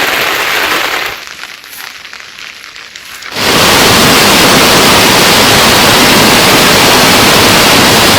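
Heavy monsoon rain making a steady hiss. It drops quieter about a second in, then turns suddenly louder at about three and a half seconds and stays loud.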